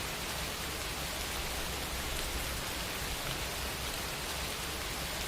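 Steady, even background noise, a hiss-like rush with a low hum beneath it, with nothing else happening.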